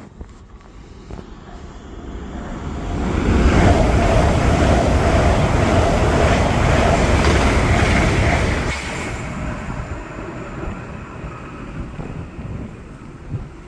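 A train passing at speed: its noise builds over about a second, stays loud for around five seconds, then falls away quickly, leaving a low rumble.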